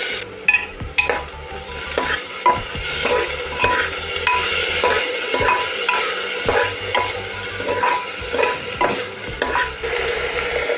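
A spoon stirring and scraping food in a cooking pot over a steady sizzle, with repeated strokes about twice a second.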